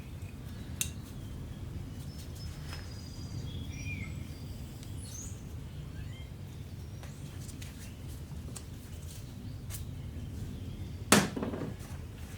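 Light clicks and handling noise of engine bearing shells being picked up and wiped, with one sharp clink near the end, over a low steady background hum.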